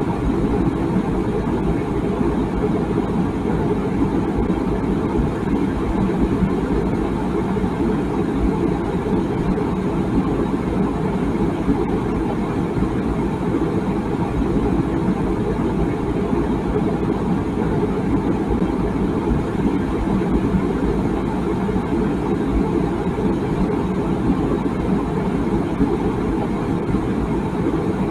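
Water boiling in a tea kettle: a steady low rumble and bubbling with no whistle.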